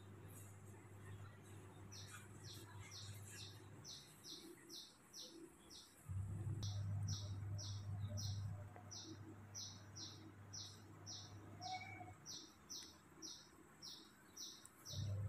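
A bird chirping over and over, short high chirps about three a second, with a brief pause about six seconds in. A low steady hum comes in about six seconds in and stops near nine.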